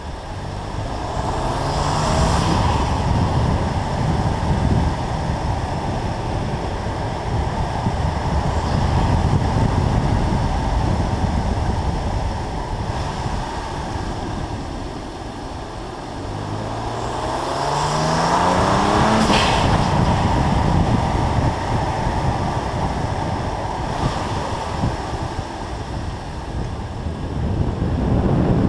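BMW M2 Competition's twin-turbo inline-six under way, its pitch rising as it pulls up through the revs, once early and again a little past the middle, over steady wind and wet-road tyre noise.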